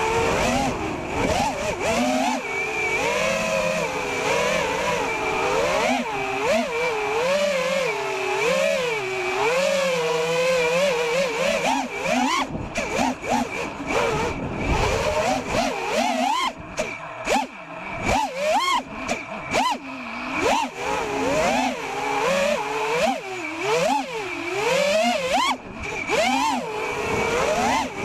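FPV freestyle quadcopter's brushless motors (EMAX Eco 2306 2400kV spinning 5-inch props) whining, the pitch swinging up and down every second or so as the throttle is punched and eased. From about 16 seconds in the sound turns choppier, with short dips.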